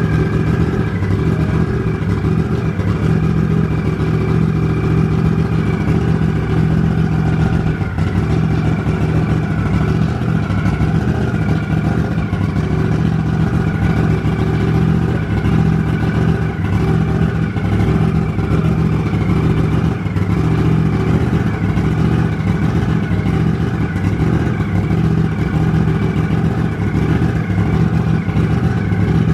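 Turbocharged Polaris RZR 1000 parallel-twin engine idling steadily, without revving, on its first start-up: a heat cycle for the freshly built engine.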